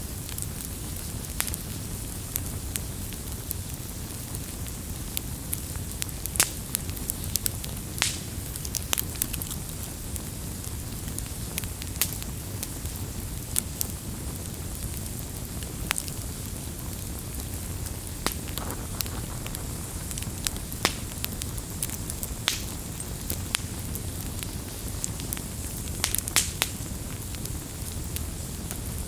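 Wood campfire burning: a steady low rumble of flames with sharp crackles and pops at irregular intervals.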